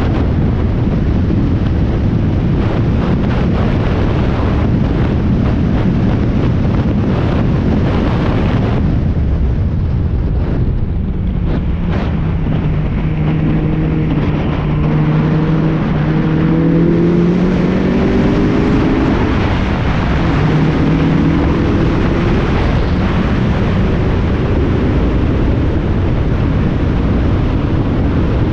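Spec Miata race car at speed on track, its four-cylinder engine heard under heavy wind noise on the microphone. Through the middle the engine note comes through clearly and shifts in pitch a few times.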